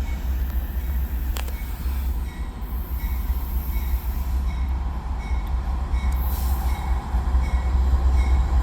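Train rolling past with a steady low rumble and some wheel noise. A faint high tone repeats about every two-thirds of a second.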